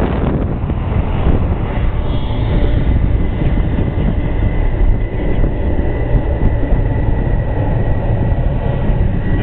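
Jet airliner engines, a loud steady rumble with a thin high whine that comes in about two seconds in and holds.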